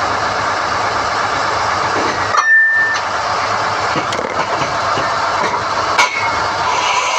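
SDH-1600 core drilling rig running steadily while NQ drill rods are hoisted. Two sharp metal clanks from the steel rods and rig fittings: one about two and a half seconds in that rings briefly, and another at six seconds.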